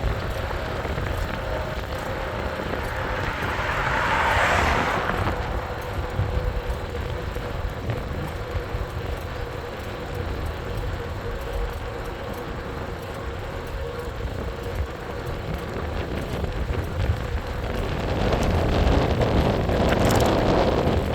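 Wind and road noise from a moving e-bike, with a faint steady hum underneath; a car passes about four seconds in and another near the end, each swelling and fading.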